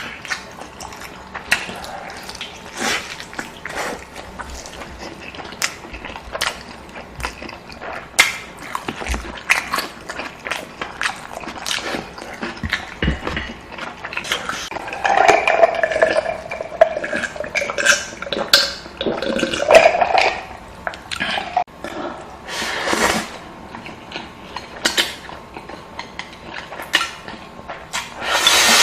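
Close-up eating sounds: wet chewing and slurping of noodles, with many short clicks of utensils against dishes. The sounds grow louder and busier about halfway through.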